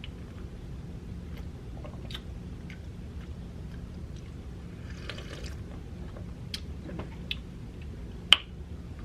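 Person chewing food close to the microphone, with scattered small wet mouth clicks over a steady low hum. There is a brief rustling crunch about five seconds in and one sharp click near the end.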